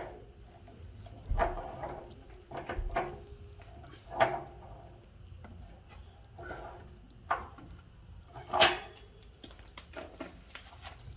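Scattered knocks, clunks and scrapes of tools and parts being handled during work on a water heater, about ten separate strikes, the loudest about eight and a half seconds in.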